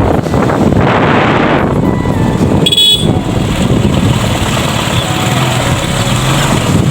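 Road traffic noise: motor vehicles running, with a short horn toot a little under three seconds in.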